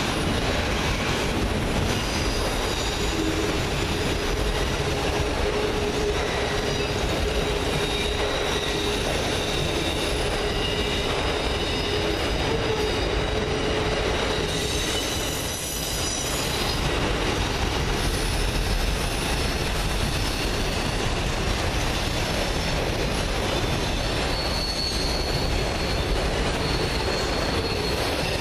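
Autorack freight cars rolling steadily past, a continuous rumble of steel wheels on rail with thin, steady high squeals from the wheels; the sound dips briefly about halfway through.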